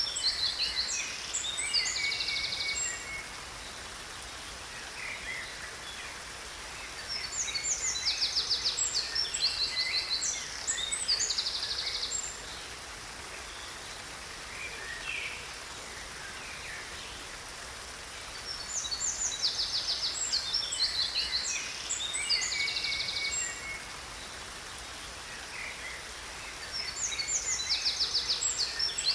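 Songbirds singing in bursts of rapid high chirps and trills a few seconds long, the same phrase coming back about every 12 seconds, over the steady rush of a waterfall.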